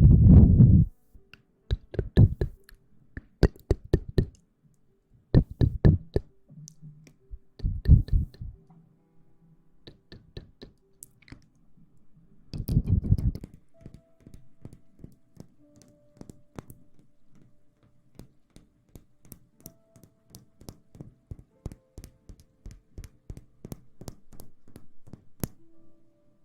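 Close-up ASMR tapping: several loud, muffled low thumps in the first half, then a long, uneven run of light, quick taps and clicks over faint steady background tones.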